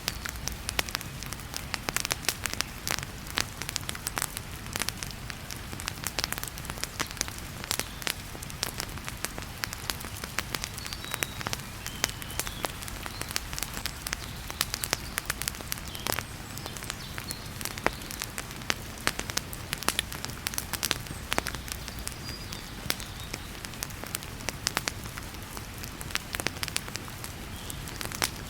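Wood fire crackling in a fireplace, with frequent irregular pops and snaps, over the steady hiss of heavy rain.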